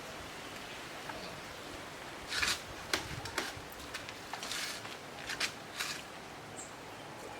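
A run of short scrapes and rustles with a few sharp clicks, typical of handling tableware while eating, over a steady background hiss; they start about two seconds in and die away near six seconds.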